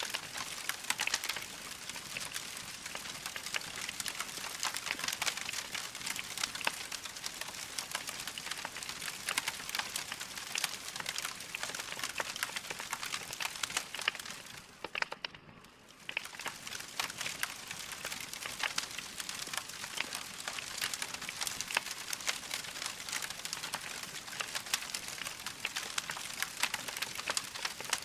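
Wood fire in a fireplace crackling, with a dense run of small pops and snaps; it briefly quietens about halfway through.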